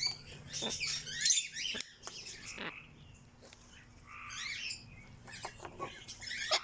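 Aviary birds chirping and tweeting in several short bursts of high calls, with a few sharp clicks among them and a quieter stretch in the middle.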